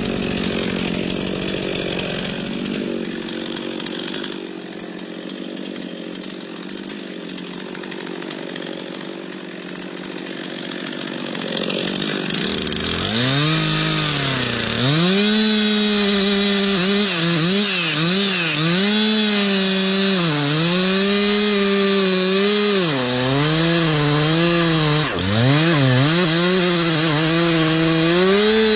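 Two-stroke chainsaw running, at first quieter and steady. About halfway through it gets louder, and its engine pitch repeatedly dips and recovers as the chain is loaded in the cut.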